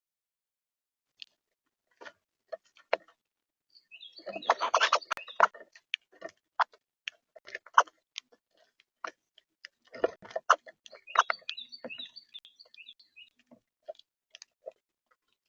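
Birds at a feeder close to the microphone: a run of sharp taps and clicks, bunched in two busy spells, with a few short high chirps among them.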